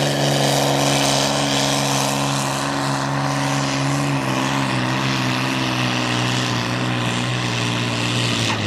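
Competition pulling tractor's engine running hard at high revs, a loud steady drone; its pitch drops a little about halfway through.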